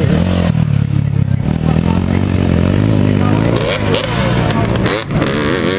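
Motocross motorcycle engine revving, its pitch rising and falling several times.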